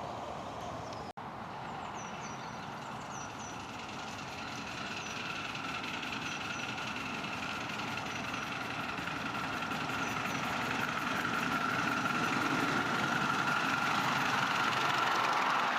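A 7¼-inch gauge miniature railway train running and drawing nearer, growing steadily louder, with a steady tone over the running noise. The sound drops out for an instant about a second in.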